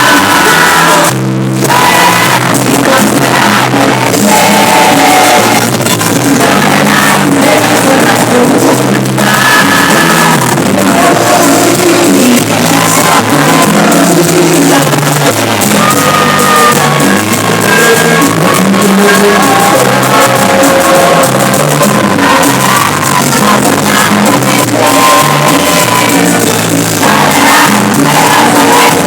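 Live band music played loud, with a singer's voice over a steady driving beat, recorded in the room.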